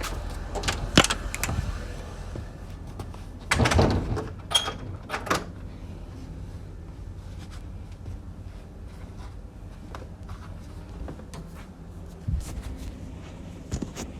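Car engine idling steadily, with scattered clicks and knocks over it and a louder clatter about four seconds in.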